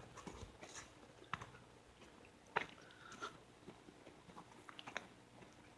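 Faint footsteps crunching through dry, overgrown ground at an irregular pace.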